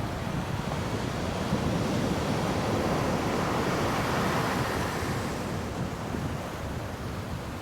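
Surf washing up a beach, one wave swelling and fading about halfway through, with wind buffeting the microphone.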